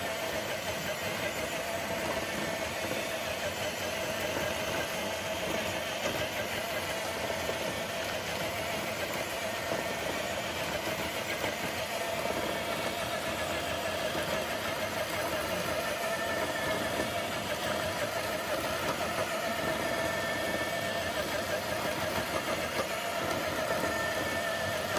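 Electric motor and gears of a scale RC crawler truck whining steadily as it strains to pull a dead-weight sled.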